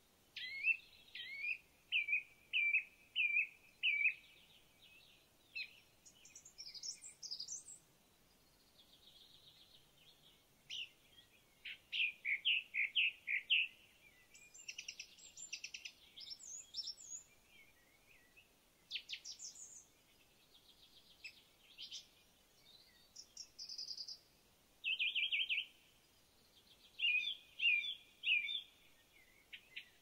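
Several songbirds singing in woodland: short phrases of chirps, whistles and rapid trills from more than one bird, coming in bouts with short quiet gaps between.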